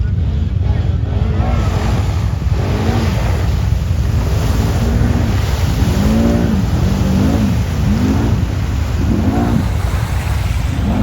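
Quad (ATV) engine revving up and down again and again, about once a second, while riding, over a heavy low rumble of wind on the microphone.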